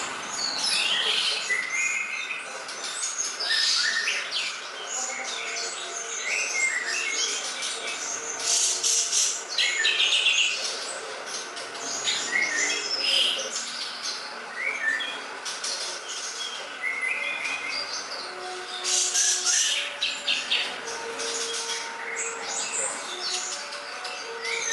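Songbird, a cucak ijo (green leafbird), singing a continuous, fast and varied song of chirps, trills and whistled phrases, as used in a song-tutor recording for training other birds. Lower, held whistled notes sound underneath near the end.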